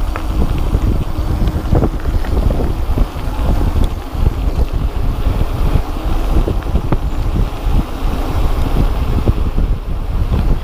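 Wind buffeting the microphone during a fast downhill mountain-bike descent, with frequent rattles and knocks from the bike running over rough ground.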